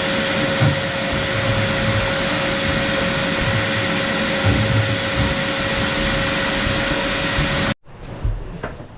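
Workshop vacuum cleaner running steadily with a constant motor whine as it cleans out the engine bay, stopping abruptly near the end.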